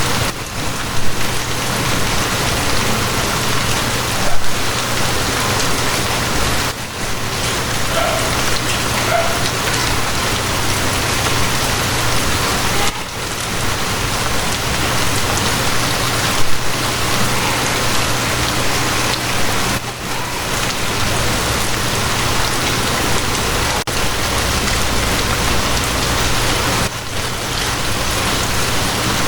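Steady rain, an even hiss with a few brief louder moments and a low steady hum underneath.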